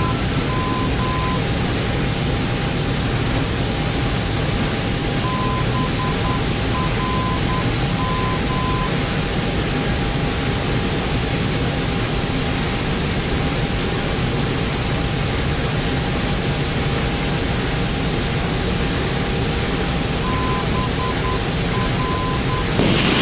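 Steady hiss of airflow and ventilation on a Boeing 767 flight deck during approach. Over it runs a faint steady tone, and three times a high beeping pattern of dots and dashes, typical of a radio navaid's Morse identifier on the audio panel. There is a brief louder hiss right at the end.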